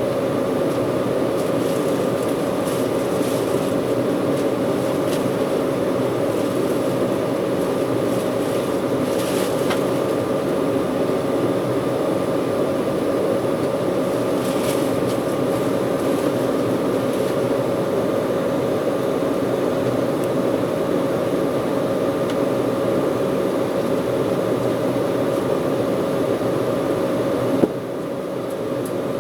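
Steady cabin drone of an Embraer 190 airliner in flight, with its GE CF34 turbofan engines and the rush of air heard from a passenger seat, and a steady tone running through it. A click near the end, after which the drone is briefly a little quieter.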